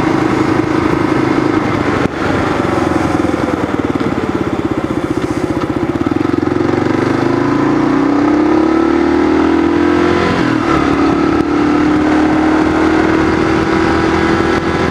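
Kawasaki KLR650 single-cylinder engine running as the motorcycle is ridden. Its pitch climbs slowly, drops briefly about ten seconds in, then holds steady.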